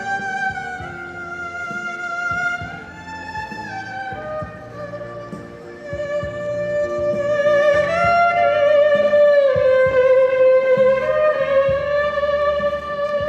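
Violin playing a slow melody of long held notes that slide from one pitch to the next, over a low backing; it gets louder about six seconds in.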